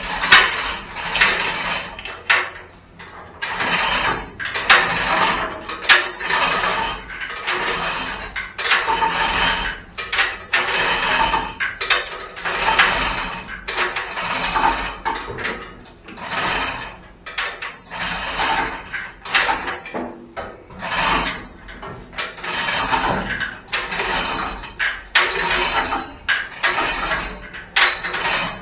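Hand tool working on metal in a steady rhythm of strokes, about one a second, with mechanical ratcheting clicks.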